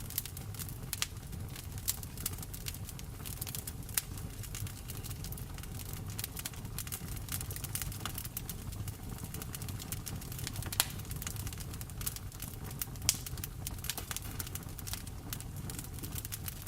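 Wood fire crackling in a fireplace, with frequent sharp pops and a few louder snaps, over a steady low rumble and the hiss of rain.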